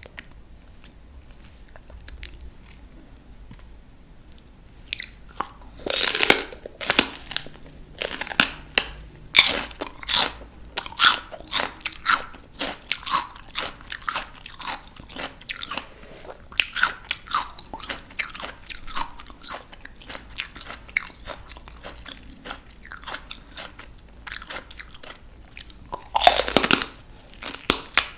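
Close-miked biting and chewing of crisp raw vegetables. The first few seconds are quiet, then a crunchy bite comes about five seconds in, followed by a steady run of crunching chews and another loud bite near the end.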